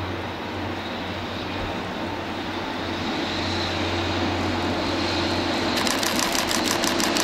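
Electric locomotive hauling a train of Seibu 101 series electric cars along an elevated line as it approaches: a steady hum and rumble growing louder. Near the end comes a rapid, even clicking of wheels over rail joints, several a second.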